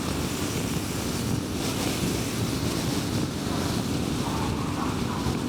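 Car driving at highway speed: steady tyre and road noise with a low engine hum.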